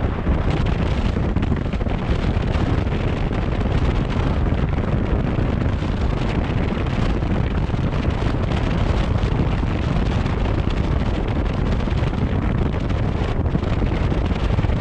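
Steady wind buffeting the microphone of a moving vehicle, a constant low rushing rumble mixed with road noise.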